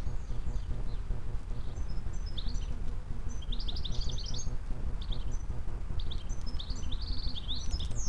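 Small birds chirping: scattered short runs of quick, high chirps, busiest about three and a half seconds in and again near the end, over a steady low rumble.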